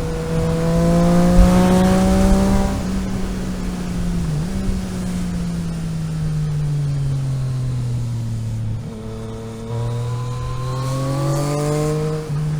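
Car engine while driving, its pitch rising as it accelerates over the first couple of seconds, easing off and falling slowly through the middle, then climbing again near the end, with brief breaks where gears change.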